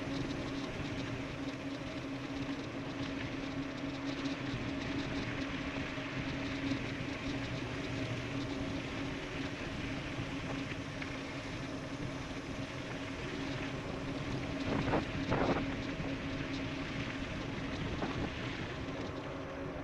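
An electric mountain bike descending a dirt road at speed: wind rushing over the microphone and tyres rumbling on gravel, with a steady hum underneath. Two sharp knocks about three quarters of the way through, with a lighter one shortly after, as the bike rattles over bumps.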